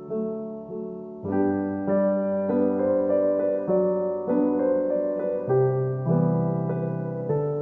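Background piano music: a gentle melody of plucked-sounding keyboard notes, growing fuller with a lower bass note entering about a second in.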